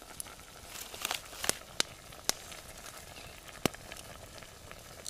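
Wild garlic frying in melted butter in a pot over a campfire: a low, steady sizzle broken by several sharp pops or crackles, the loudest about two-thirds of the way through.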